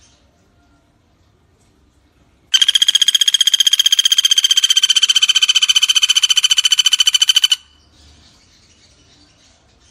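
Pelatuk bawang woodpecker giving one long rattling call: a fast, even run of high notes, about ten a second, lasting about five seconds and cutting off sharply. It starts about two and a half seconds in.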